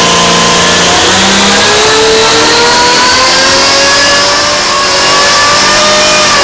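Engine revving up, its pitch climbing slowly and steadily for several seconds, then falling away just after the end.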